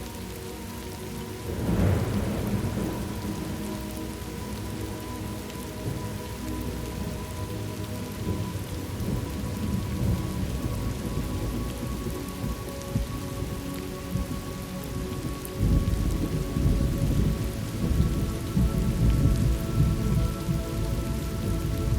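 Thunderstorm ambience: steady rain falling, with a roll of thunder about two seconds in and longer, heavier rolling thunder from about fifteen seconds on.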